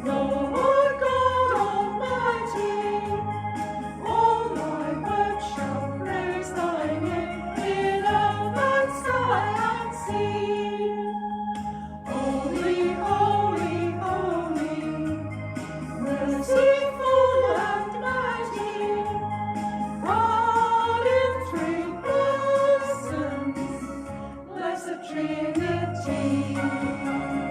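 A small group of singers singing a hymn over instrumental accompaniment.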